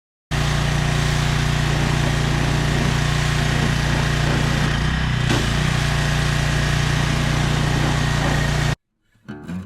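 Gas-engine pressure washer running steadily: a constant engine hum under a strong hiss of spray. It starts and cuts off abruptly.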